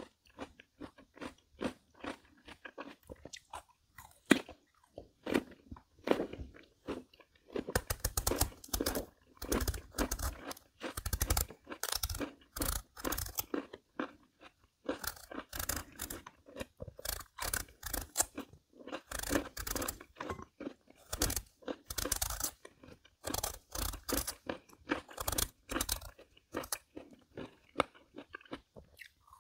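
Crisp Korean melon (chamoe) being bitten and chewed, a run of irregular wet crunches. The crunching is light at first and grows louder and denser from about eight seconds in.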